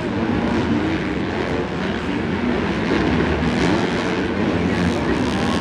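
Several supercross dirt bike engines racing together, a dense, steady mix of engine notes rising and falling as the riders work the throttle.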